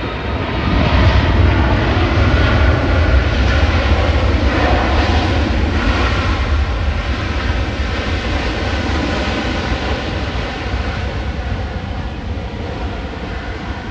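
Jet airliner's engines: a loud, deep rumble that swells about a second in and then slowly fades, with a faint steady whine over it.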